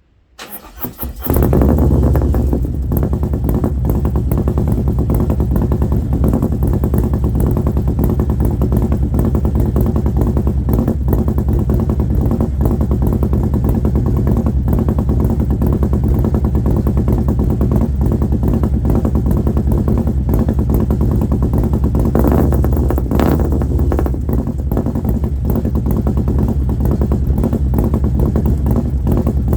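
Cold start of a Harley-Davidson Milwaukee-Eight V-twin fitted with an S&S 475 camshaft and Mutazu 2.0 megaphone slip-on mufflers: it fires and catches about a second in, then idles loudly and steadily.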